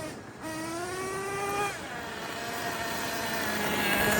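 The Ofna Titan's .25 nitro engine revs up with a rising whine, drops off sharply just under two seconds in, then runs steadily and grows gradually louder. The driver says the truck is not shifting.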